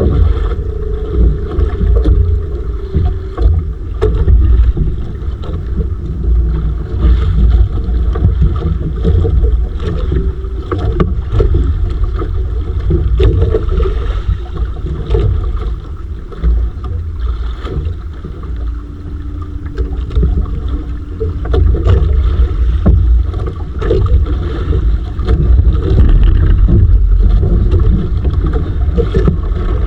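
Wind buffeting the microphone aboard a small open fishing boat at sea, a heavy, gusting rumble with water noise under it. A faint steady hum comes in briefly past the middle.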